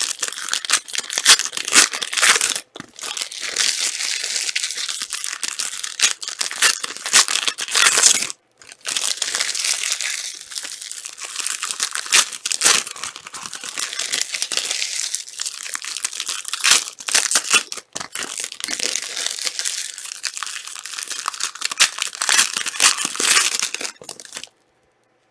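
Foil trading-card pack wrappers being torn open and crinkled by hand: a dense run of crackling and ripping, with a brief pause a little past the middle of the first third and another just before the end.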